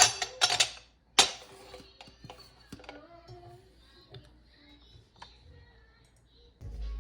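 A few sharp clinks and knocks of kitchenware in the first second or so, then fainter scattered clicks. Music comes in near the end.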